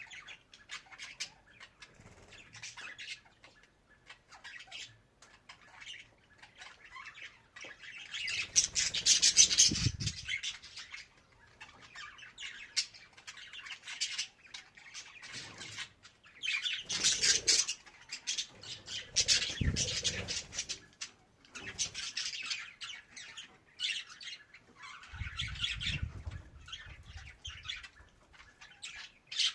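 Budgerigar chattering and warbling, a run of quick chirps and squawks in uneven bursts, with several louder spells that also carry low rustling, the loudest about a third of the way in.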